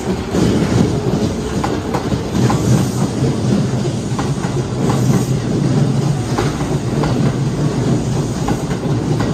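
Kintetsu 30000 series Vista Car express departing, two sets coupled, its cars passing close by. The running gear rumbles steadily while the wheels clack irregularly over the track.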